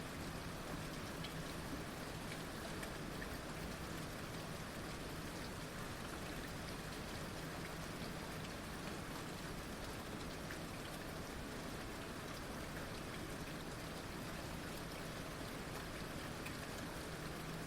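Heavy rain falling steadily, a dense even hiss of drops with scattered individual drop ticks. A faint low steady hum runs underneath.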